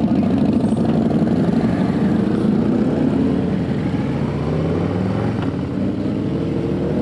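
Motorcycle engine running while riding, with its pitch rising gradually near the end as it speeds up.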